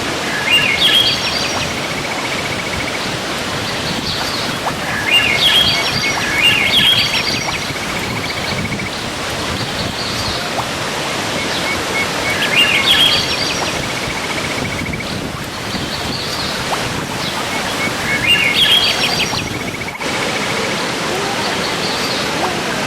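Steady rushing of a waterfall, with a songbird singing the same short song several times, about every six seconds: a quick run of chirps followed by a rapid trill.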